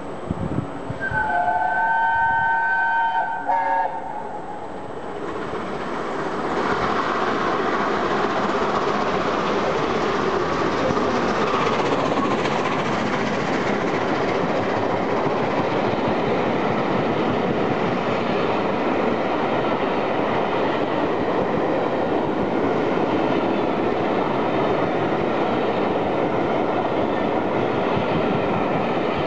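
Steam locomotive whistle sounding a chord for about three seconds. The Peppercorn A1 Pacific then passes at speed with its train of coaches, and a steady rush and rumble of wheels on rail carries on to the end.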